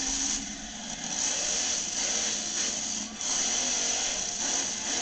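Monster truck engine running at high throttle, a harsh, loud buzzing roar that briefly drops twice, about half a second in and about three seconds in, as the throttle is lifted.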